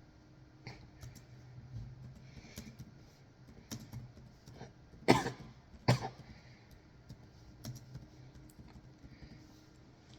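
A man coughing twice, sharply, about a second apart midway through, over faint scattered clicks of computer-keyboard typing.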